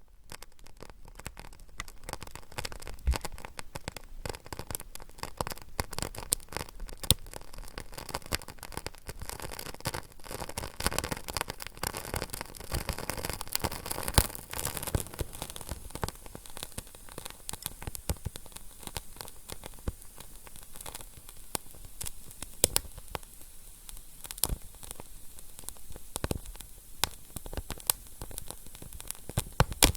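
Wood fire crackling: many sharp, irregular pops and snaps over a steady soft hiss.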